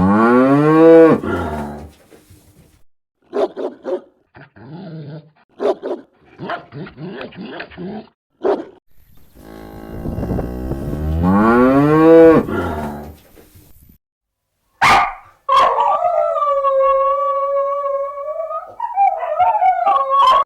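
Farm animals calling: two long calls that rise and then fall in pitch, several short calls between them, and a long steady-pitched call near the end.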